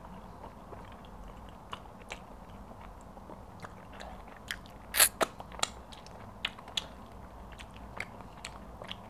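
Close-miked eating sounds: chewing with wet mouth clicks and smacks as pounded yam and egusi soup are eaten by hand and fingers licked. The loudest smack comes about five seconds in.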